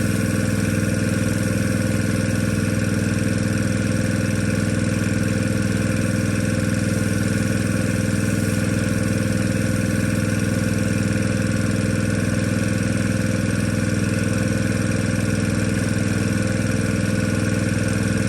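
An engine running steadily at one constant speed, with no change in pitch or loudness.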